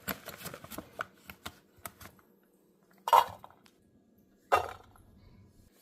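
Dry dog food being scooped into a bowl, a quick run of small clicks and rattles that thins out after about two seconds. Later come two short, louder sounds about a second and a half apart.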